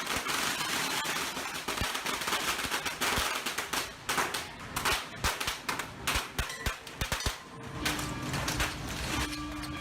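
Strings of firecrackers going off in a dense crackling barrage that thins to scattered separate bangs, the firecrackers set off along the Shōrō Nagashi spirit-boat procession. A steady tone comes in near the end.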